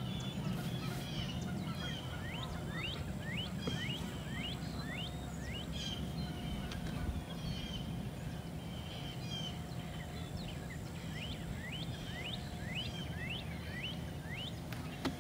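A bird singing a run of short, rising whistled notes, about two a second, repeated in a second run later. A steady low outdoor rumble lies under it.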